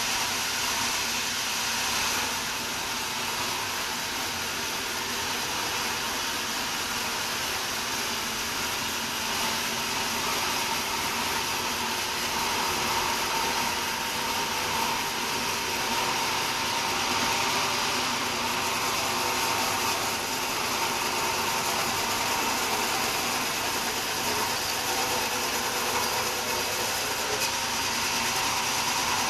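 Sawmill saw cutting through a wadang wood log: a steady, even noise with a faint constant whine.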